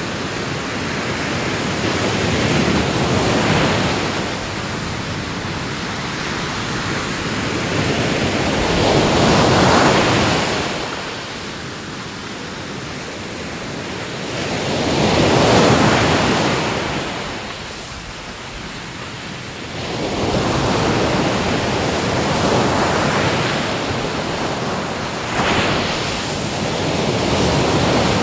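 Ocean waves breaking and washing ashore, the surf swelling and ebbing about every five to six seconds.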